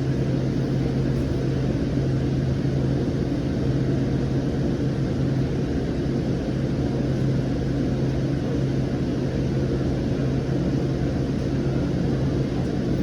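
Siemens S700 light rail car running between stops, heard from inside the car: a steady running noise with a constant low hum.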